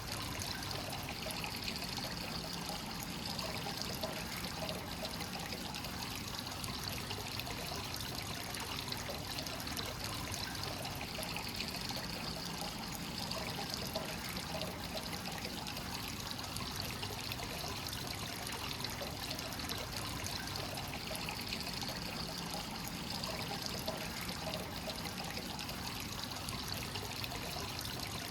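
Free-flowing hot spring water running steadily into a stone bath: a continuous trickle and splash of water.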